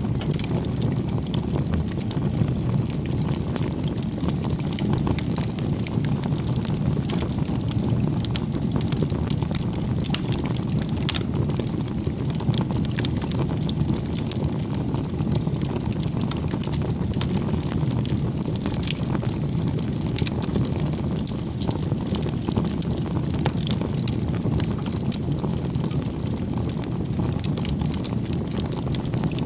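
Wood fire burning: a steady low rumble with frequent small crackles and pops throughout.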